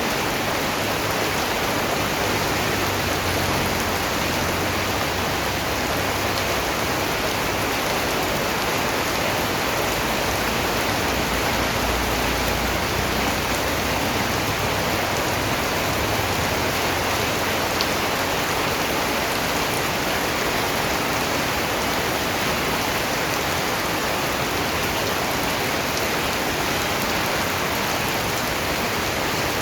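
Steady rain falling, an even hiss with no break, with a soft low rumble underneath for about the first half.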